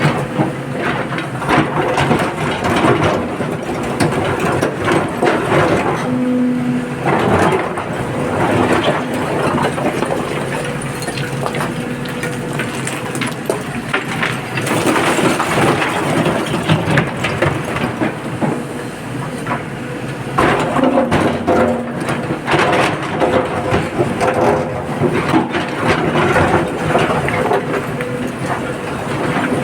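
Excavator at work loading rock into a tipper truck: a dense, irregular clatter and crunch of stone, over the steady hum of the machine's engine.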